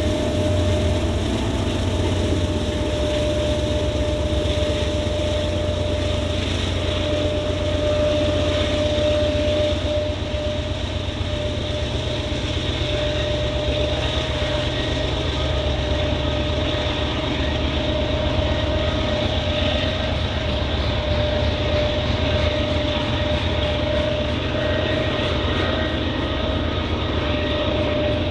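Train passing: a loud, steady rolling rumble with one steady whine held throughout.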